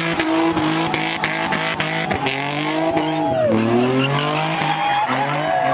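A car engine revving hard, its pitch rising and falling with the throttle, over tyres squealing as the car spins donuts. The revs sag about three and a half seconds in, then climb again.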